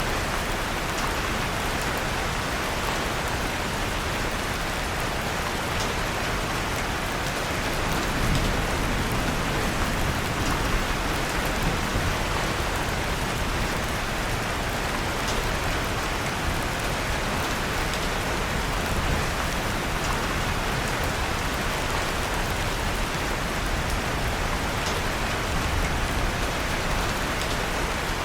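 Steady rain falling, mixed with faint scattered crackles of a wood fire in a fireplace. A low rumble swells slightly about eight seconds in.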